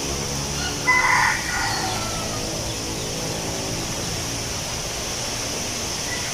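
Steady wind in the leaves, with a rooster crowing once about a second in, its call trailing off downward over the next second.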